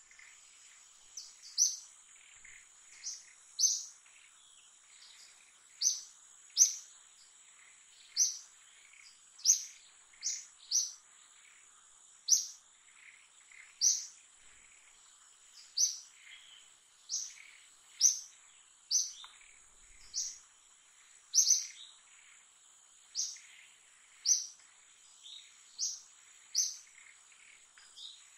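A bird giving short, sharp, high chirps roughly every one to two seconds, over a steady high-pitched insect drone.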